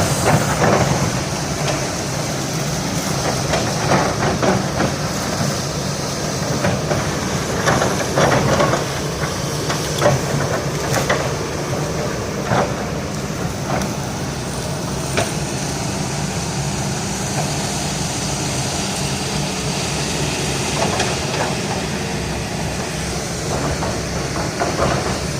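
Hydraulic excavator's diesel engine running steadily, with a dozen or so sharp knocks and cracks as the excavator works a fallen oil palm trunk to cut it.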